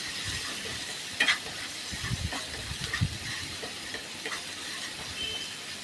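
Onion and ginger-garlic paste sizzling in hot oil in a pan, stirred with a spoon that scrapes and clicks against the pan now and then, one sharper scrape about a second in.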